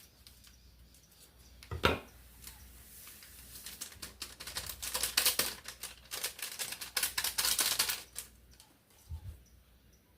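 Dry bread yeast being handled and emptied from its packet into a mixing bowl: a single knock about two seconds in, then several seconds of dense, rapid crackling and ticking that stops near the end.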